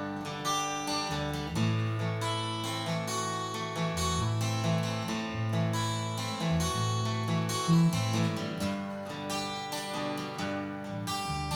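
Instrumental break in a country song: acoustic guitar strumming and picking over a bass line, with no singing.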